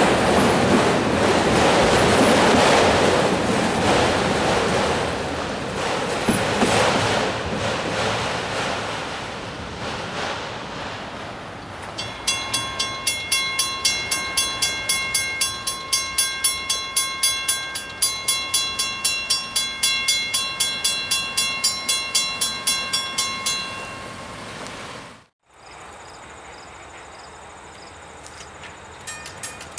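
The last cars of a freight train roll past on the rails, the wheel and rail noise fading away over about ten seconds. Then a grade-crossing bell rings in quick even strokes, about three a second, for around twelve seconds before stopping.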